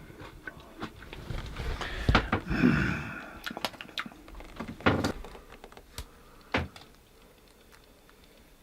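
A few knocks and thuds with lighter clicks between them, the loudest about two and five seconds in, then quieter after about seven seconds.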